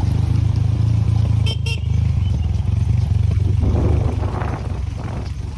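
Motor vehicle engine running with a steady low rumble, with a brief horn toot about a second and a half in.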